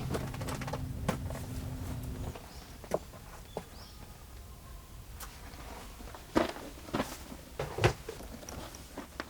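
A small motor hums steadily and stops about two seconds in. Scattered taps and knocks follow, a few seconds apart.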